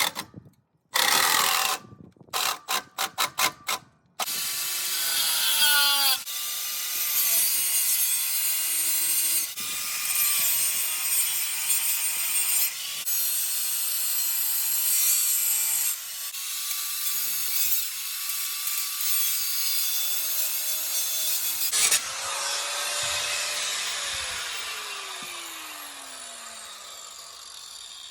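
Power tool cutting through the steel welds on a tractor's exhaust elbow and muffler: a few short bursts, then a long steady cut with the motor whine dipping under load. Over the last few seconds the motor winds down with a falling pitch after release.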